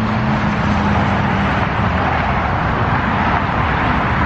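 Motor vehicle on the move: a steady engine and road noise, with a low hum that fades about a second and a half in.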